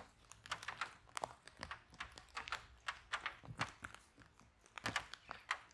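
Wood fire in a fireplace crackling, with irregular sharp pops and snaps several times a second over a faint low rumble.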